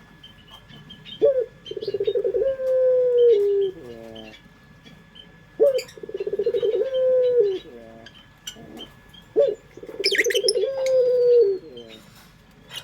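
Barbary dove (puter) cooing three times. Each coo opens with a short rising note, rolls into a trill, holds a long note and then falls away in a few stepped notes. Faint high chirps from small birds sound in the background.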